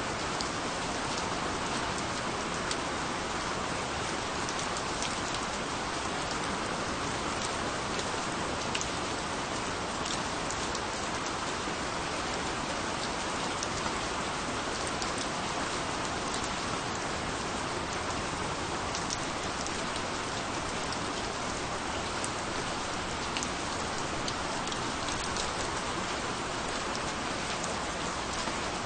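Steady rainfall on a surface, an even hiss with many small drop ticks throughout.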